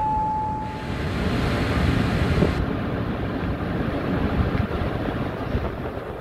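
Last note of a rising multi-note platform chime in the first second, then a train running through the station: a loud low rumble with wind buffeting the microphone, and a hiss for the first couple of seconds.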